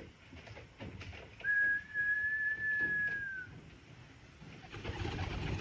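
One long, steady whistle held for about two seconds, dropping slightly in pitch as it ends, with faint low cooing of pigeons rising near the end.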